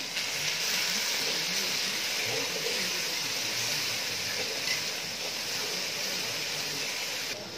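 Onions and turmeric frying in hot oil in a metal pot: a steady sizzle as a spatula stirs the mixture. It cuts off just before the end.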